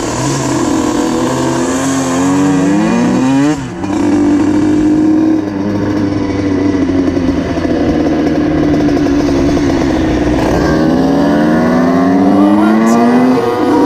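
Motorcycle engine revving, its pitch climbing and falling. It dips sharply for a moment about three and a half seconds in, then sweeps up again in repeated rises near the end.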